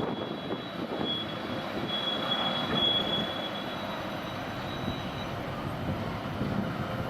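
Steady rumbling noise of a moving vehicle, with a faint high-pitched squeal that comes and goes during the first few seconds.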